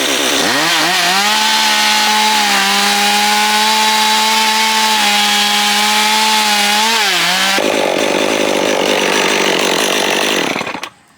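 Small two-stroke carving chainsaw revving up within the first second, then held at a steady high engine pitch, with a brief dip about seven seconds in. For the next three seconds or so it gives a rougher, hissier sound without the clear engine note, stopping shortly before the end.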